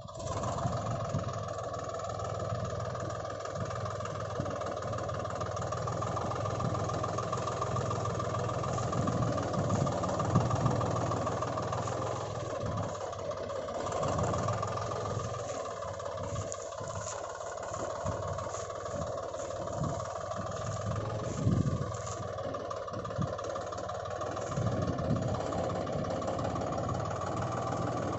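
Toy tractor's engine sound, a steady drone with a wavering pitch that starts abruptly.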